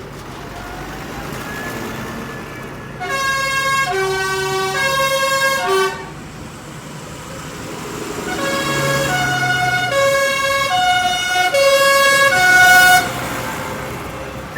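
A vehicle's musical horn playing a tune of short held notes, stepping from pitch to pitch: one run starts about three seconds in and stops near six seconds, a second, louder run goes from about eight to thirteen seconds. An engine runs underneath.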